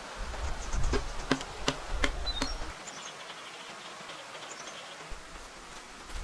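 A run of sharp knocks, about three a second, that stops about two and a half seconds in. Faint high chirping continues behind them.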